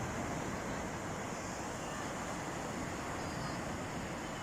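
Sea surf washing on a beach, a steady rushing noise, with wind buffeting the microphone.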